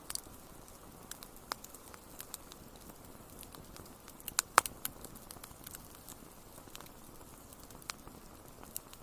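Wood fire crackling: a soft steady hiss with scattered sharp pops, the loudest a quick cluster of pops about halfway through.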